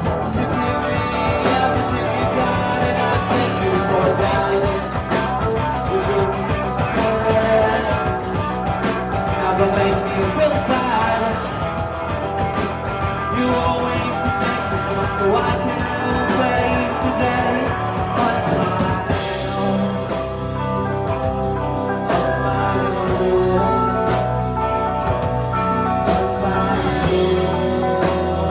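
Live rock band playing a song with electric guitar, drums and singing, heard through a handheld phone's microphone in the room. About two-thirds of the way in the drum and cymbal strokes thin out and the bass fills out.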